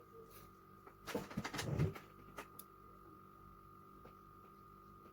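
Handling noise from small carburettor parts being worked by hand: a short burst of clicks and rustling about a second in, then a couple of faint clicks. A faint steady high hum runs underneath.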